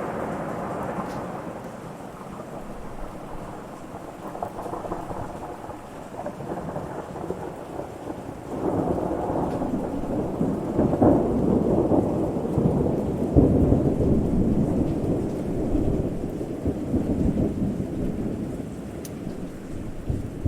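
Thunder rumbling with steady rain. A heavier roll of thunder comes in suddenly about eight and a half seconds in, swells for several seconds, then slowly dies back to the rain.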